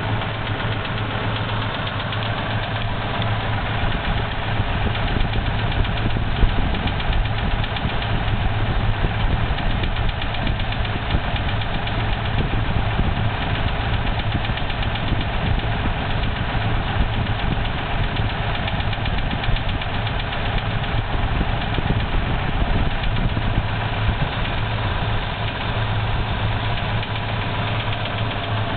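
Toyota 2F straight-six petrol engine idling steadily with a rapid, continuous knock.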